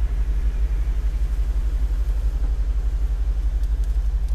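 Mercedes-Benz G500 4x4² twin-turbo V8 idling, heard from inside the cabin as a steady low rumble with a fine, even pulse.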